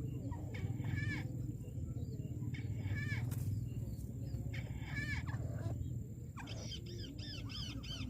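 Repeated calls of white-browed crake, the trapper's target bird: short arched calls about once a second, then from about six and a half seconds a faster run of several calls a second. A steady low hum runs underneath.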